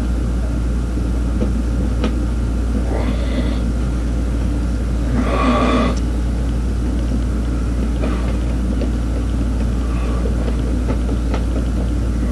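Two short bursts of a corded electric drill: a brief spin-up with rising pitch about three seconds in, then a louder burst of about a second near the middle, over a steady low hum.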